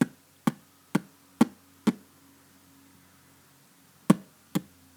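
Sharp knocks of a toy being bumped along a hard surface, about two a second: five in a row, a pause of about two seconds, then two more near the end.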